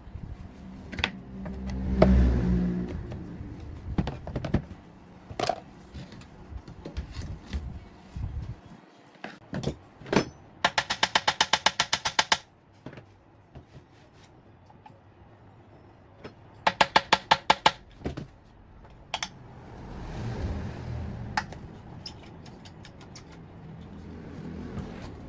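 Hand tools knocking and clicking on the generator's metal parts, with two quick runs of rapid, even clicks. Low rumbling comes near the start and again near the end.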